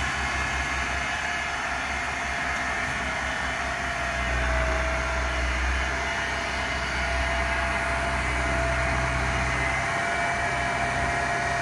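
Zetor tractor's diesel engine running steadily while pulling a corn seeder, with a thin steady whine above the engine.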